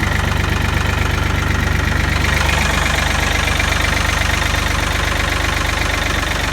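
Ford diesel tractor engine idling steadily.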